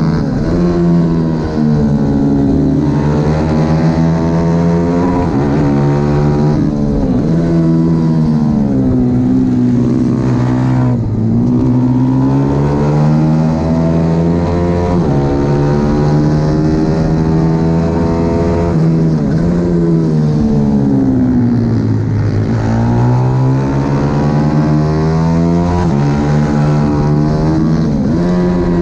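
A racing pit bike's single-cylinder engine revving hard around a track. The pitch climbs through each burst of acceleration and drops back several times as the rider shuts off and brakes for corners.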